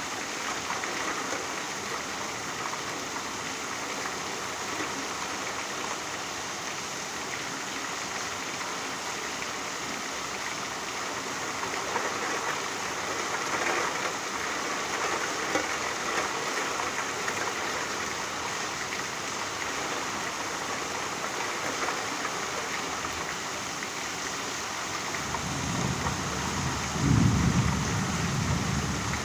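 Steady rainfall, an even hiss of rain. A low rumble swells in near the end.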